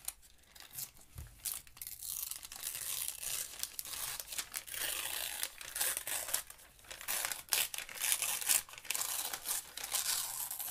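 Paper being torn by hand and handled: a crackling, rustling rip full of small snaps, quieter at first and fuller from about two seconds in.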